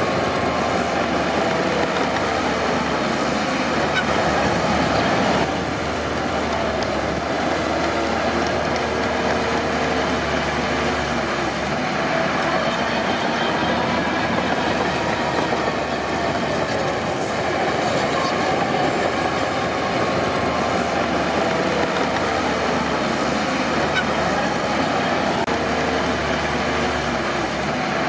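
Crawler bulldozer running steadily under load, its steel tracks giving a continuous clatter with wavering squeals.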